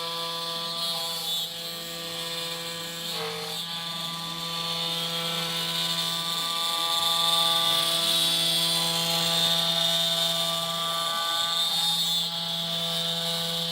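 CompuInfo Nova CNC Pró 1300+ CNC router running, with a steady whine of several tones. Short tones rise and fall repeatedly over it as the motors drive the axes back and forth.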